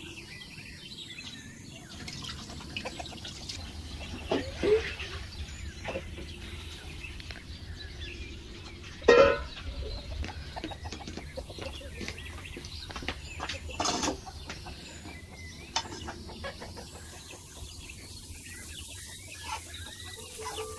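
Chickens clucking, with two louder calls about four and a half and nine seconds in, the second the loudest, over scattered faint clicks and knocks.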